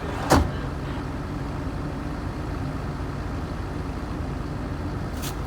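Heavy machinery engine idling steadily, with one sharp knock about a third of a second in and a faint click near the end.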